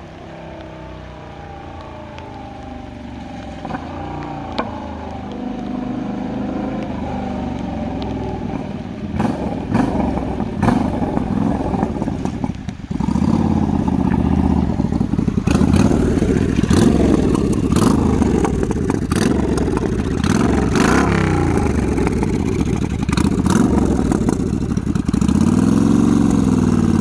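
Yamaha Bolt 950's air-cooled V-twin motorcycle engine running. It grows louder over the first dozen seconds, then runs loud, with a short blip of revs near the end.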